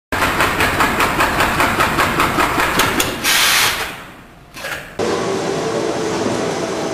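Kansai Special industrial sewing machine running, a fast, even clatter of stitching strokes for about three seconds, followed by a short hiss. About five seconds in it gives way abruptly to a steady machine hum with a few held tones.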